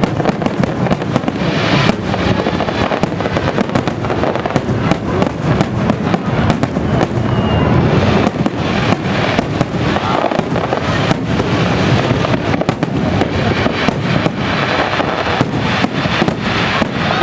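Fireworks bursting in a rapid barrage: many sharp bangs a second overlapping with continuous crackle and rumble.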